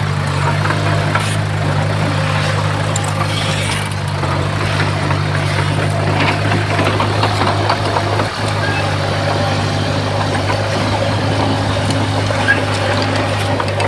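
Heavy diesel earthmoving machinery, a bulldozer or dump truck, running steadily with an even low engine hum and no change in pitch.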